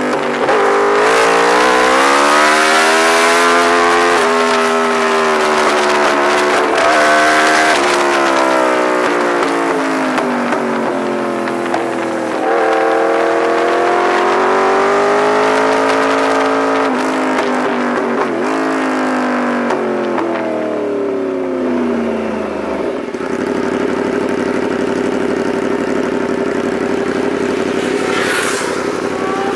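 Yamaha R1 sportbike's inline-four engine heard onboard, its pitch swinging up and down again and again as the rider accelerates and shifts through the corners, with heavy wind hiss on the microphone. About twenty seconds in it winds down and settles into a steady, lower note as the bike rolls along slowly, the wind hiss gone.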